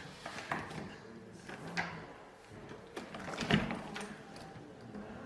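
A door being opened, with a few scattered knocks, the loudest about three and a half seconds in.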